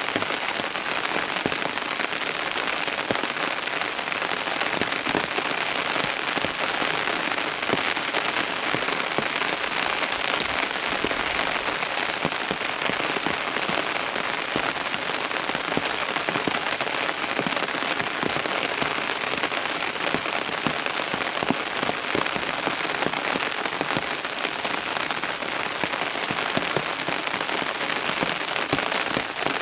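Steady rain falling and pattering on a surface, a dense even hiss of many small drop impacts.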